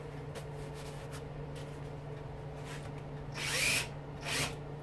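Power drill fitted with a socket, run in two short bursts on a motor fastener. The first burst is longer, and its pitch rises as the motor spins up.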